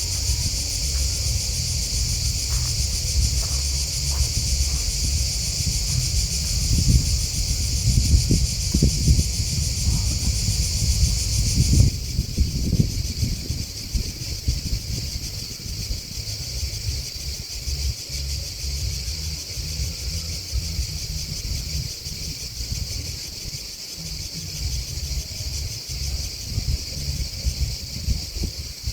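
Chorus of crickets and grasshoppers chirring steadily at a high pitch; it drops abruptly to a quieter level about twelve seconds in. A low, gusty rumble runs underneath, stronger in the first half.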